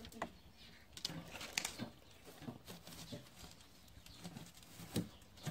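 Embers and burning wood in a fireplace being raked to the edges: a few sharp clicks and knocks scattered through a quiet stretch, one about a second in, another soon after, and one near the end.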